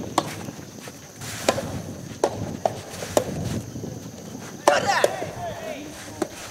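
Soft tennis rally: a rubber soft-tennis ball struck by rackets and bouncing on the court, a string of about eight sharp pops at irregular spacing.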